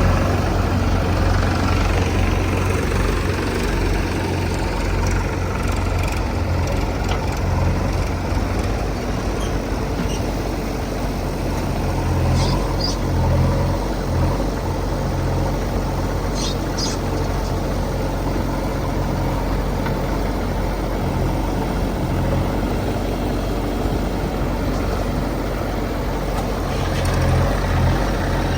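Diesel engine of a JCB 3DX backhoe loader running steadily as it works, a continuous low drone that swells now and then. A few short high-pitched sounds come near the middle.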